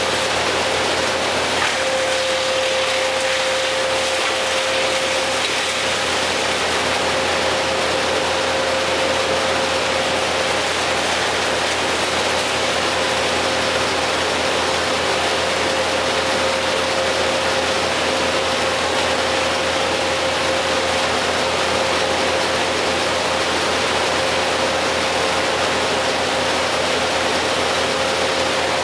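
Machinery running steadily, a constant wash of noise with a single steady whine held throughout.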